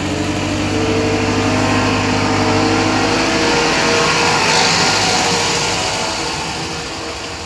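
A miniature railway's diesel locomotive engine running loud close by as a train passes on the other track of a passing loop. The engine note swells toward the middle and fades away near the end.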